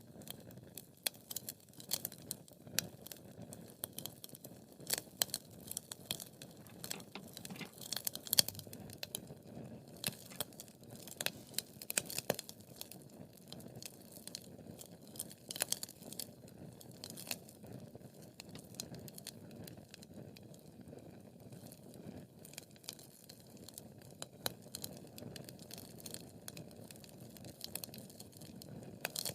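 Wood fire burning in a fireplace: a steady low rumble of flames with frequent sharp crackles and pops, the busiest in the first half and the loudest pop about eight seconds in.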